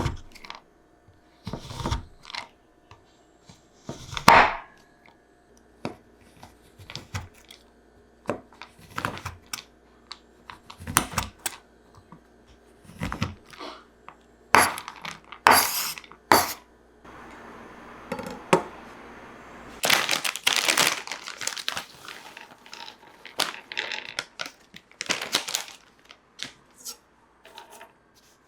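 Kitchen handling sounds of home baking: irregular clicks, taps and clatters of utensils and dishes, with a few seconds of steady hiss followed by a burst of crinkling and rustling about two-thirds of the way through.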